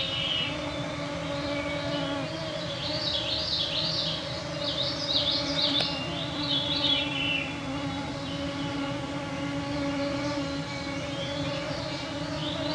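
A cloud of mosquitoes whining around the microphone, a steady hum that swells and fades as they fly past. Songbirds sing over it in several high, fluttering phrases.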